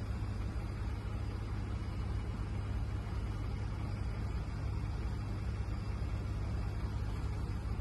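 Steady low engine rumble and hum, unchanging throughout.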